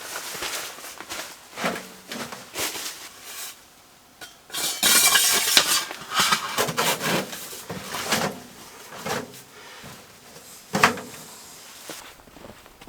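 Metal parts of a portable camp wood stove clanking and scraping as it is handled and fitted together. Irregular knocks, a longer scraping rattle about five seconds in, and one sharp clank near the end.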